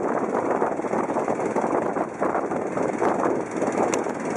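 Longtail boat engine running loud and steady.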